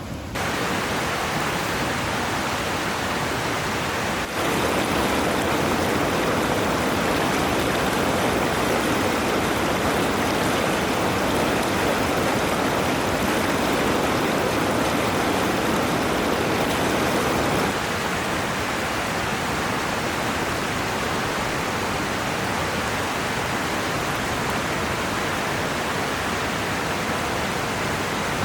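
Steady rush of a flowing river, its tone shifting a little about four seconds in and again after about eighteen seconds.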